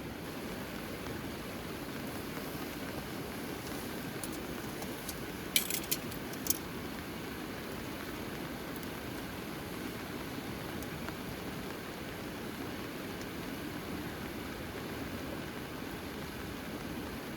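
Steady wash of falling rain, with a short cluster of sharp clicks about six seconds in.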